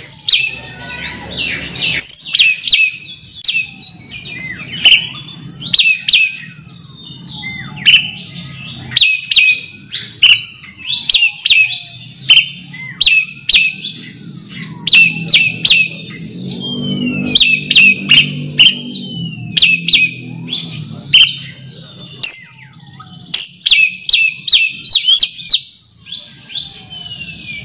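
Oriental magpie-robin (kacer) singing loudly in bursts of fast, sharp whistled and chattering notes: the call used to challenge a rival. A low hum runs underneath, strongest a little past the middle.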